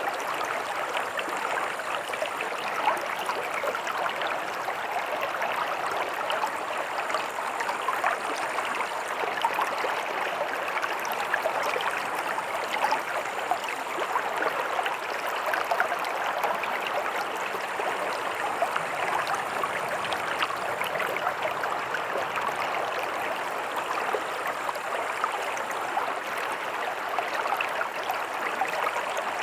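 Stream water running steadily over stones, a continuous splashing and gurgling rush.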